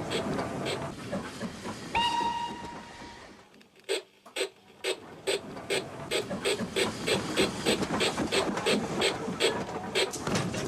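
Model steam locomotive sound effects: a short whistle blast about two seconds in that fades out. After a brief drop-out, quick regular beats of the locomotive running go on steadily.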